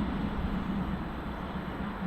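A passing train, a steady rumble with a low hum that slowly fades.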